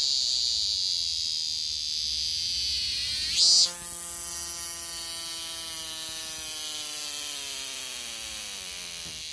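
Cicada singing: a steady high buzz, then a loud swell about three and a half seconds in, followed by a long drawn-out call that slowly falls in pitch before it stops near the end.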